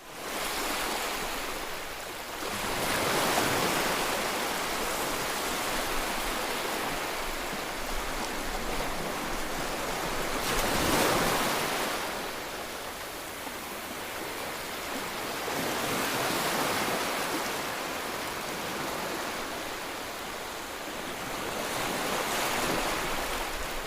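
Rain falling, a steady hiss that swells and eases every few seconds.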